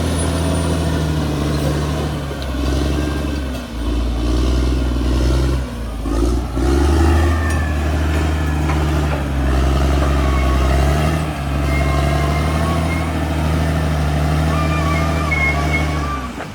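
Caterpillar D6R XL crawler bulldozer's diesel engine running hard under load, its note dipping briefly several times and recovering. Faint high metallic squealing comes in during the second half.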